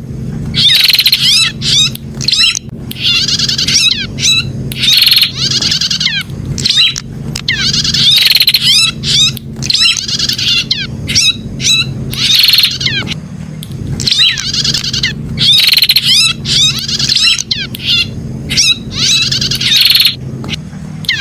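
Prenjak (prinia) singing: fast, rapid trilled chirping phrases about a second long, repeated over and over with short gaps between them, over a steady low hum.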